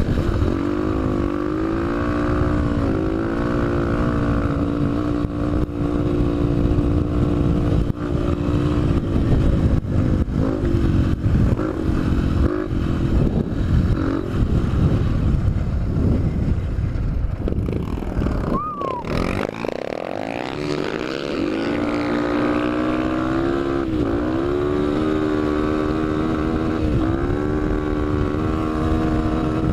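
Honda CRF trail motorcycle's single-cylinder four-stroke engine running under throttle, its note wavering up and down with the throttle. About two-thirds of the way through the engine note drops away, then climbs again as it accelerates.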